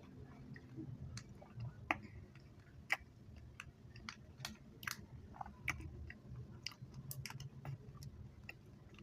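Close-up chewing of chewy chocolate candy: irregular sticky clicks and smacks of the mouth, several a second, over a soft low churning.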